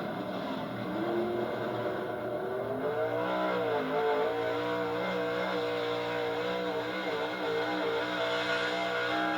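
Altered gas pulling truck's engine running at high revs, its pitch climbing about three seconds in, dipping briefly, then holding high with small wobbles.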